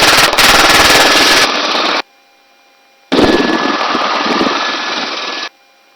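Helicopter engine and rotor noise picked up through the crew's intercom microphone: a loud, rapid chopping hiss that cuts off abruptly about two seconds in, returns about a second later, and cuts off again near the end as the mic opens and closes.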